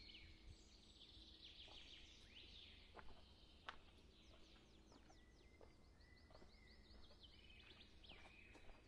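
Faint birdsong over near silence: small birds chirping in short, high, down-slurred notes, with a quick run of them about halfway through. A couple of faint clicks sound a few seconds in.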